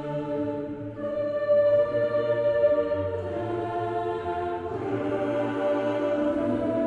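Background choral music: voices holding long chords that move to a new chord every second or two.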